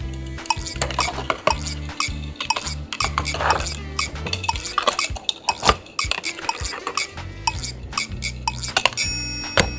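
Die-cast Tomica toy cars clinking and clicking as they are handled and packed into their boxes, many small sharp clicks one after another, over background music with a steady bass line.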